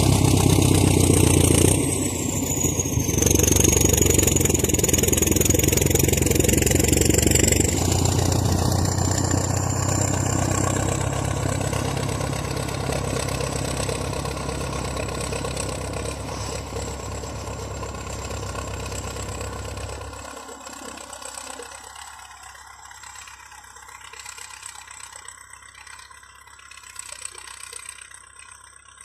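Heavy tractor diesel engine running loud and steady, easing off after about eight seconds and cutting out about twenty seconds in, after which only faint scattered sounds remain. A thin high whine runs over it.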